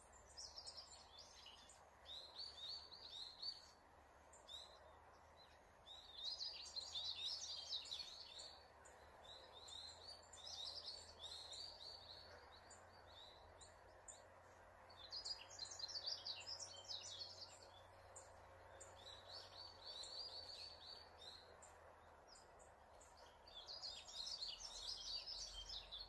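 A songbird singing in the forest canopy, repeating a phrase of quick high notes every few seconds, over a faint steady hiss.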